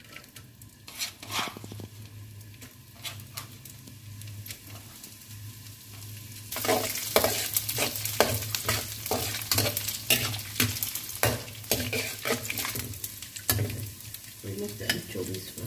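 Dried anchovies sizzling as they fry in hot oil in a steel wok. About six and a half seconds in, the sizzle grows louder and a metal spatula scrapes and knocks against the wok with many quick clicks as the anchovies are stirred.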